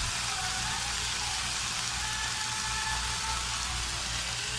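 Marinated chicken liver sizzling in hot corn oil in a pan: a steady, even sizzle.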